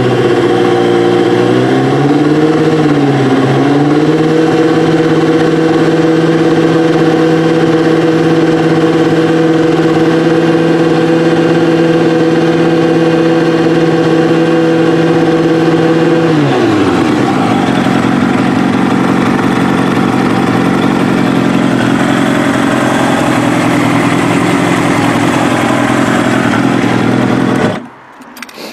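Kawasaki ZX-7R inline-four engine with FCR carburettors running on a stand. The revs waver for the first few seconds, then hold steady at about 4,900 rpm. About 16 seconds in they fall back to idle, and the engine is switched off near the end.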